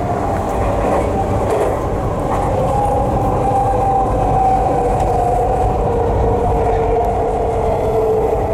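Tokyu 3020 series electric train running, heard from inside the car: a steady rumble of wheels on track with a motor whine whose two tones sink slowly in pitch.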